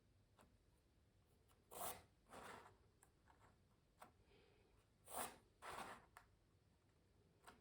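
Pencil drawing on canvas: faint scratchy strokes in two quick pairs, about two seconds in and again about five seconds in, with a few light taps between.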